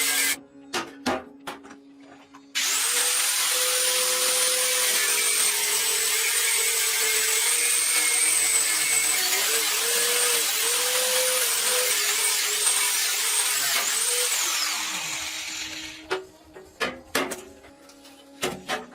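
High-speed handheld power tool running with a hissing whine, cut briefly near the start amid a few clicks and restarted. Its pitch dips several times, as if pressed against the work, before it winds down near the end, leaving scattered clicks and knocks of tools.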